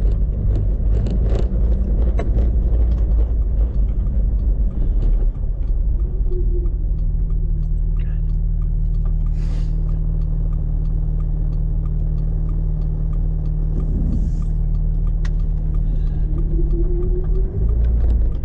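Jeep Wrangler YJ's engine running as it drives, heard from inside the cab: a steady low drone with occasional clicks and rattles.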